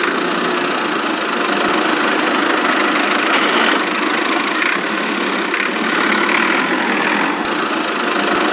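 Engine noise running steadily with no deep bass, in the manner of a tractor engine idling.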